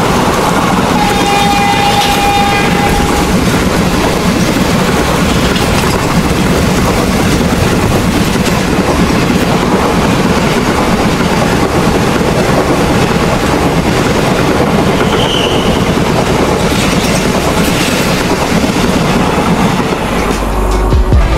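Passenger train passing at speed on the adjacent track, close by: a steady rush of wheels clattering over the rail joints. A train horn sounds briefly about a second in.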